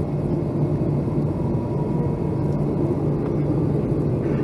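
Steady low rumble of engine and airflow noise inside the passenger cabin of a Boeing 757-200 airliner, with a faint steady whine over it.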